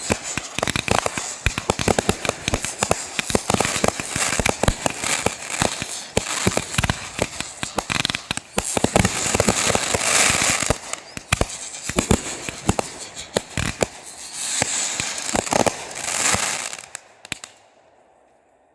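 Fireworks going off in a rapid, dense string of bangs and crackles, stopping near the end.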